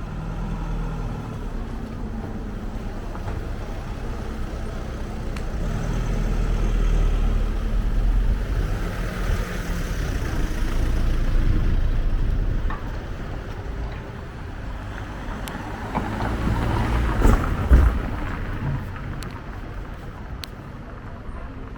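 Road traffic: motor vehicles passing with a low engine rumble. One swells and fades around the middle, and another louder pass comes near the end with a couple of short sharp knocks.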